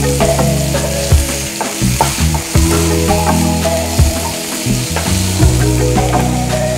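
Chopped tomato, green chilli and onion frying in vegetable oil in a pan, sizzling, with a spoon stirring and scraping against the pan in irregular clicks. Low sustained tones that shift in pitch every second or so sit underneath.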